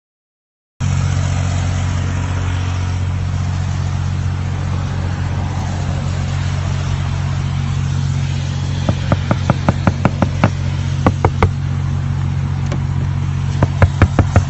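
Car driving, heard as a steady low drone, joined about halfway by a run of sharp, evenly spaced ticks, about three a second, that grow louder near the end.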